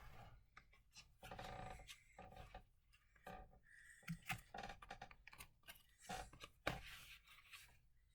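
Near silence with faint scattered rustles and light clicks of paper book pages being turned.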